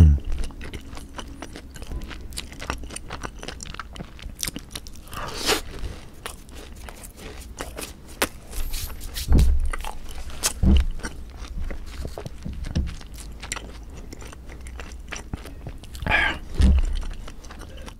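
Close-miked chewing of a fried cheese ball with a rice-cake shell and a melted-cheese centre: soft crunches and many small wet mouth clicks. A few low thumps come in the middle and near the end.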